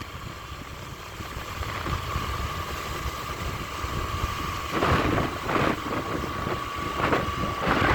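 Motor vehicle running while moving: a steady low engine and road rumble with a thin steady whine, and a few louder rushes about five seconds in and again near the end.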